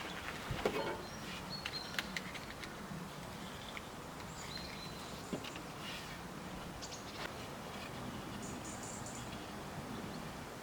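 Quiet woodland ambience with a few short, high bird chirps and occasional faint clicks.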